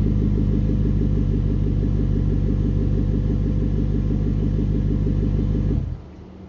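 BMW 550i's 4.8-litre V8 running at a steady speed through a muffler-deleted exhaust, with no change in pitch. The sound cuts off suddenly near the end.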